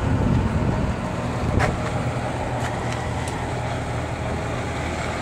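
A truck's engine running steadily at low revs as the truck backs slowly, with one sharp click about a second and a half in.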